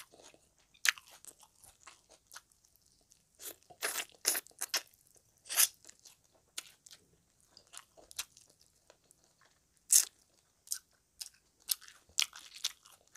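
Close-up chewing of frog, crunching on meat and small bones: irregular sharp crunches and crackles, a few much louder than the rest.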